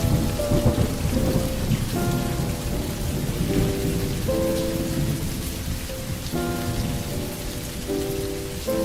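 Steady rain with a rumble of thunder, heaviest in the first few seconds, under a slow melody of held instrumental notes.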